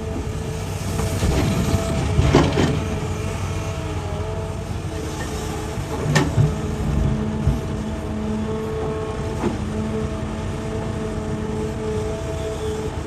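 Hitachi excavator running steadily under work, its engine and hydraulics holding a steady drone, broken by three sharp knocks about two, six and nine seconds in.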